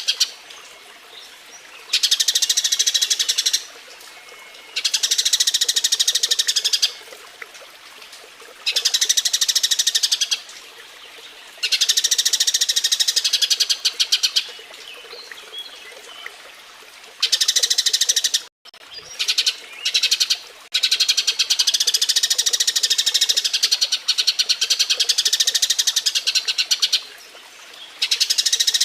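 Eurasian tree sparrows (burung gereja) chirping rapidly in mating chatter. The chirping comes in repeated bouts of one to several seconds with short pauses between them.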